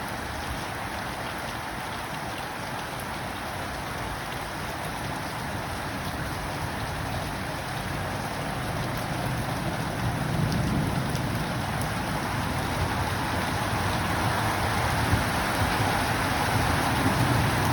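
Heavy rain falling in a steady hiss that grows slowly louder toward the end, with a low rumble of thunder about ten seconds in.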